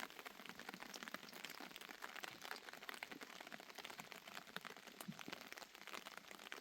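Light rain pattering: a faint, even hiss dense with small irregular drop ticks.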